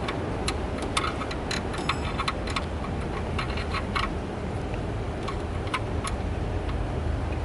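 Light metallic clicks and taps of bolts and hand tools being handled while a bolt is tried in a threaded hole, irregular and frequent at first, then sparser, over a steady low rumble.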